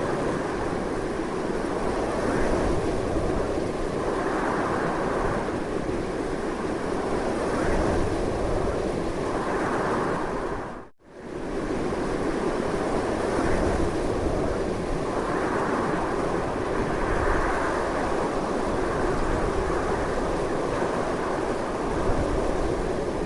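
Strong, continuous wind blowing in slow swells. About halfway through it fades briefly to near silence and comes straight back.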